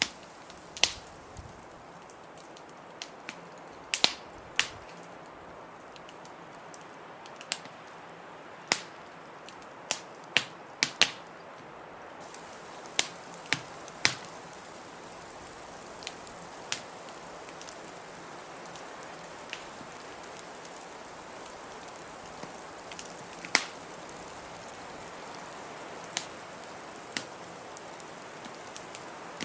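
Wood fire crackling in a fireplace, with sharp, irregular pops, some loud, over a steady hiss of blizzard wind.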